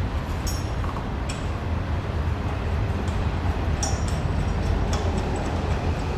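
A steady low rumble with several sharp metallic clinks, like steel tools knocking together, about half a second in, after about a second, twice around four seconds in, and again near five seconds.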